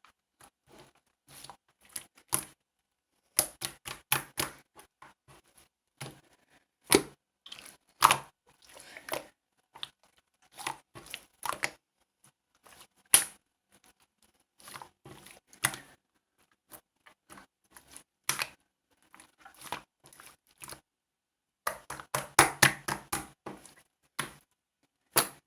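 Slime being squished and poked by hand, giving irregular sticky clicks and crackly pops with short pauses between, and a dense run of crackles near the end.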